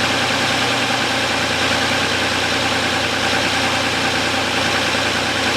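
Audi Q7's 3.6-litre VR6 petrol engine idling steadily while still cold, at about 20 °C. The whistle this engine develops once warm is not yet there.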